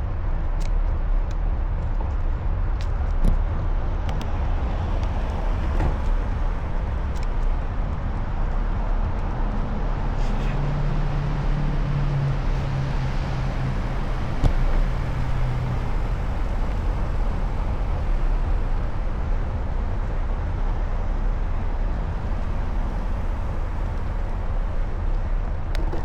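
Traffic and road noise heard from a moving bicycle: a steady low rumble, with a passing vehicle's engine hum from about ten to sixteen seconds in and a few light clicks in the first several seconds.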